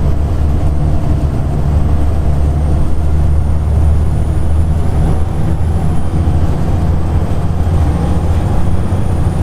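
Volvo B7TL double-decker bus heard from inside while driving, its diesel engine running steadily with a thin high whine above it.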